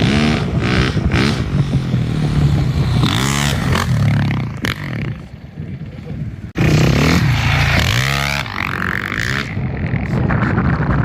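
A vehicle engine revving hard again and again, its pitch sweeping up with each rev, with a sudden jump in loudness about six and a half seconds in.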